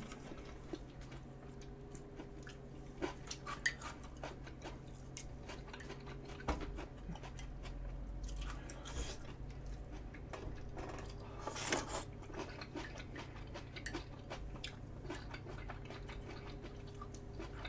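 A person chewing and biting food close to the microphone, with scattered soft clicks and taps, over a faint steady low hum.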